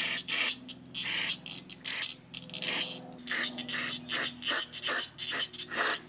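About a dozen short hissing bursts of aerosol carburetor cleaner sprayed into a small-engine carburetor's passages, coming faster in the second half. It is flushing out fuel passages gummed by old gas.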